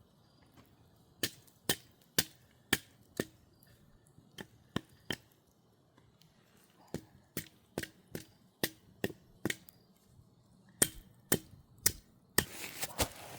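Sharp chopping knocks, about two a second, in several short runs with pauses between. A crinkling rustle starts near the end.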